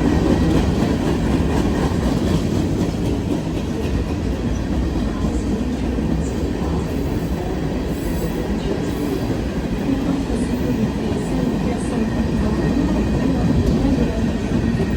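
Freight train cars rolling past on the rails, a steady low-pitched noise of wheels on track with no letup.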